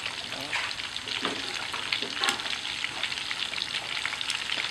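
Pieces of sun-dried field rat meat sizzling and crackling as they fry in hot oil in a nonstick pan, stirred and turned with chopsticks.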